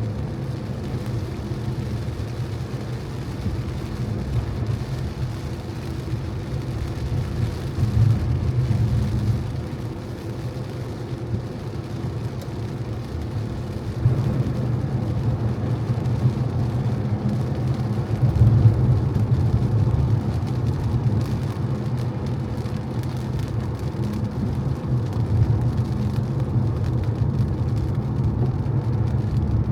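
Car driving on wet streets in the rain: a steady low rumble of engine and road, with a hiss of tyres and rain over it. It swells a few times along the way.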